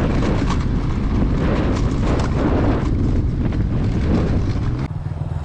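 Heavy wind buffeting and rumble on a helmet-mounted action camera's microphone while riding an electric enduro bike at speed. Near the end it cuts suddenly to a lower, evenly pulsing running sound.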